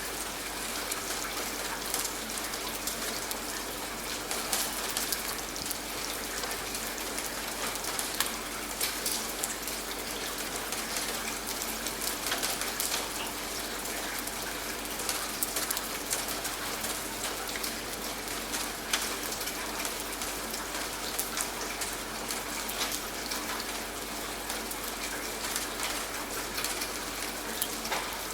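Steady rain falling, with many individual drops pattering irregularly on a surface.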